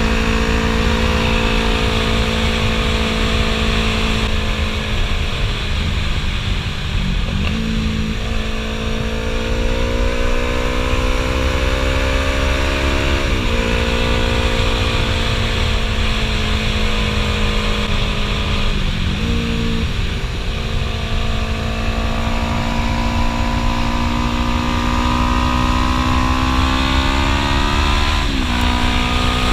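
Yamaha R3's parallel-twin engine through a Two Brothers Racing S1R full-system exhaust, pulling hard. Its pitch climbs steadily and drops sharply at each gear change, about four times, over low wind rumble.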